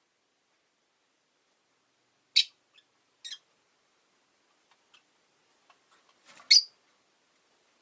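Rosy-faced lovebirds giving short, high-pitched chirps: two about a second apart, then a louder one after a few faint ticks, near the end.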